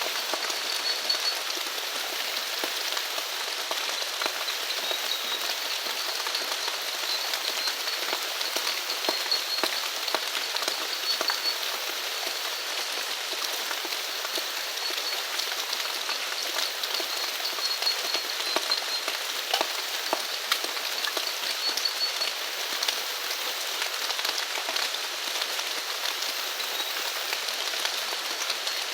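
Steady rain falling, with many individual drops ticking close by. A faint, high chirping recurs in short runs behind it.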